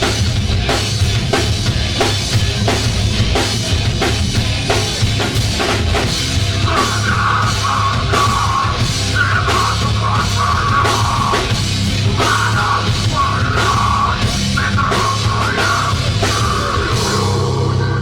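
Live rock band playing loud, heavy music, with a drum kit driving a fast beat of drum and cymbal hits. About seven seconds in, a higher melodic line joins in and comes and goes over the drums.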